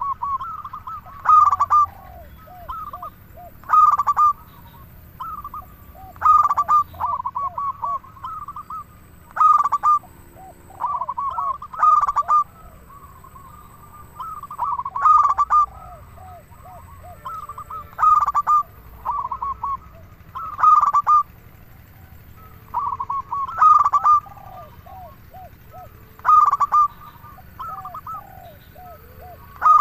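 Zebra dove (perkutut) singing: repeated cooing phrases, each a loud opening note followed by a quick run of shorter coos, recurring every two to three seconds.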